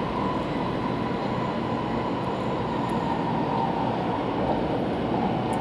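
Steady running noise of an 800 series Shinkansen at speed, heard inside the passenger cabin: an even rumble with a faint high hum.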